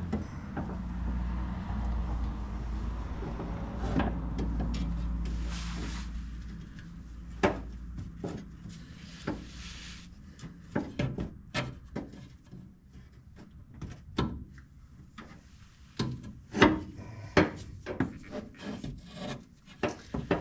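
Rubbing and scraping of parts being worked into place under a van during shift linkage installation, over a low hum for the first six seconds or so, then scattered sharp clicks and knocks.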